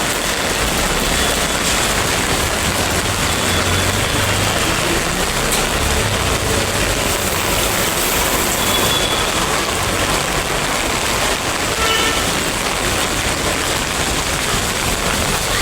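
Steady, loud rushing noise of road traffic in heavy rain, with a few faint short horn toots.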